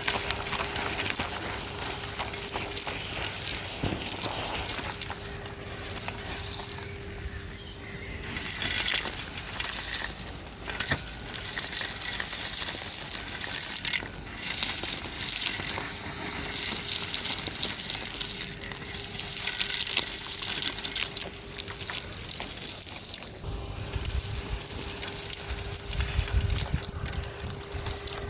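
Henry HVR 200-22 cylinder vacuum cleaner sucking up grit and small debris from a street surface, with steady crackling and rattling as the debris goes up the hose over the motor's hum, which fades in and out.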